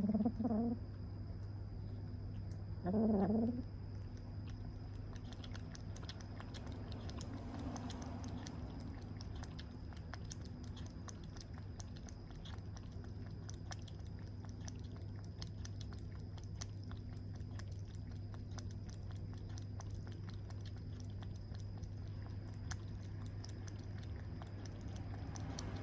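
A cat meows twice, short calls about three seconds apart, over a steady low hum and faint scattered clicking.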